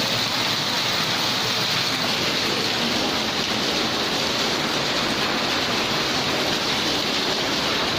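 Steady rain mixed with snow falling, an even hiss with no separate drops standing out.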